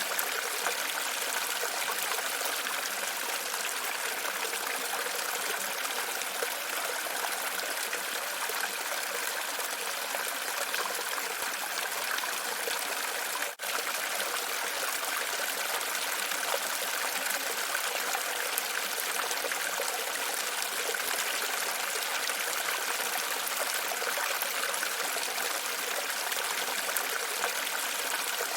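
Steady running water trickling and splashing, with a momentary dropout about halfway through.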